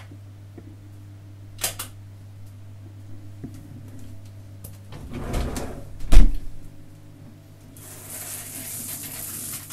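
Someone stepping into a glass shower cabin over a steady low hum: a couple of clicks, some rustling, then a loud thump about six seconds in as the cabin door shuts. Near the end a steady hiss of shower water spraying starts.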